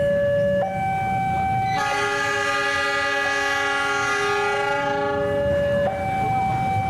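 Diesel locomotive's horn blowing one long chord for about four seconds, starting about two seconds in, over a level-crossing warning alarm that alternates between two tones every second or so.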